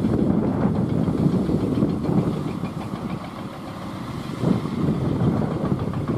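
Truck engine running with a fast, even pulsing. It eases off in the middle and picks up again about four and a half seconds in.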